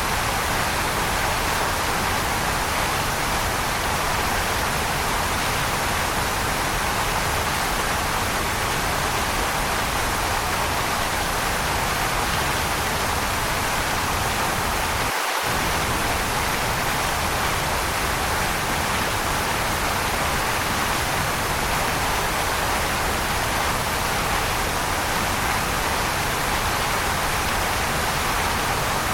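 Waterfall: a steady, even rush of falling water with no change in level, with a brief drop in the low rumble about halfway through.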